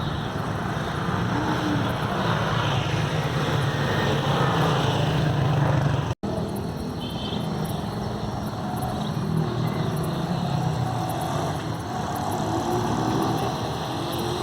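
Steady rushing roar of a rain-swollen river, a continuous noise with a heavy low rumble. It breaks off for an instant about six seconds in, then carries on.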